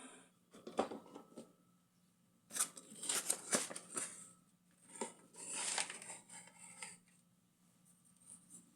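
Handling noises: a series of short rustles, scrapes and clicks in irregular clusters, as something is worked by hand.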